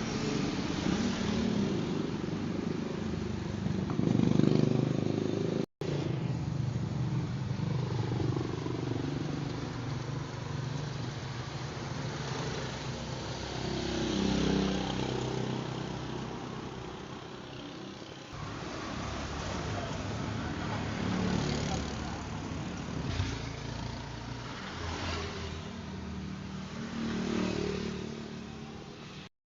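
Motor vehicle engines, sport bikes and cars, running and revving across several short clips joined by abrupt cuts.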